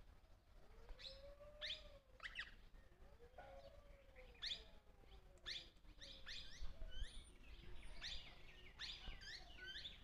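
Wild birds calling: short, sharp chirps, coming more thickly in the second half, over a low whistled note, about a second long, that rises and falls and repeats in the first half.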